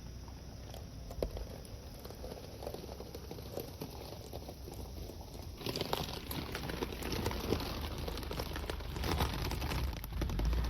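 Rain pattering, full of small taps, turning suddenly louder and brighter a little over halfway through.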